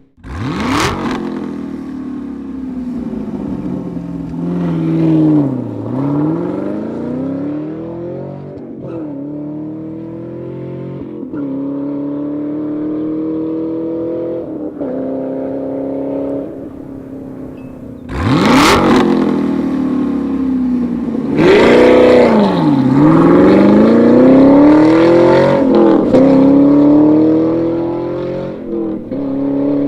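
Chevrolet Camaro SS 6.2-litre V8 through a Borla exhaust, accelerating through the gears: the pitch climbs steadily and drops at each upshift. It is heard in two runs, each opening with a sudden sharp blast, the second run louder.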